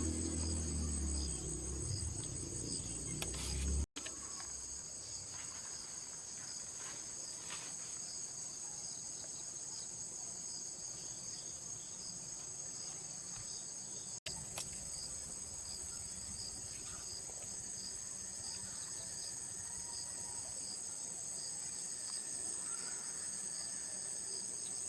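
Steady high, finely pulsing chirring of insects in the background. Low background music plays for the first four seconds, then stops suddenly.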